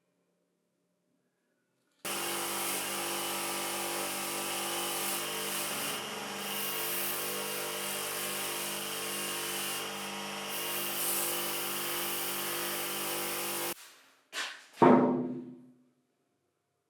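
A power tool starts about two seconds in, runs at a steady speed for about twelve seconds, then cuts off abruptly. Two sharp knocks follow, the second one louder.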